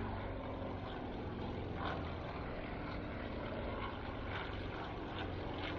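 An aircraft flying over, its engine sound steady throughout.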